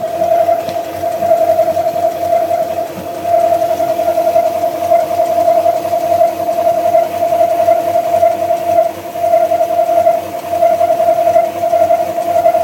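A steady whine from a BMW M62B35TU 3.5-litre V8 engine, wavering slightly in level. It is an extraneous noise that the owner places roughly between the gearbox and the engine.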